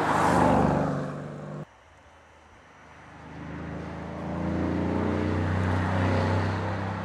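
Mercedes-AMG C63 Estate's V8 engine as the car sweeps close past, loudest in the first second. After a sudden cut about two seconds in, the engine note builds again and holds loud as the car drives on, fading near the end.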